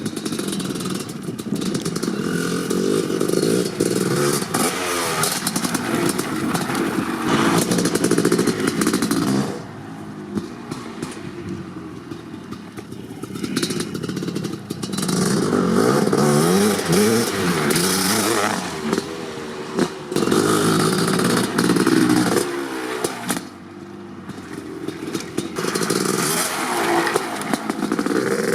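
Kawasaki KX500's 500cc single-cylinder two-stroke engine, fitted with an FMF Gnarly pipe, revving up and down under throttle. Several stretches of hard revving rise and fall in pitch, and it drops back to a lower, quieter running twice, about ten seconds in and again past twenty seconds.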